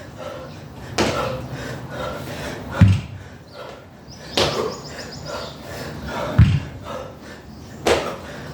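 22.5 kg dumbbell clean and jerk reps: a heavy low thud twice, about three and a half seconds apart, with a sharper clank between each pair, one rep every few seconds.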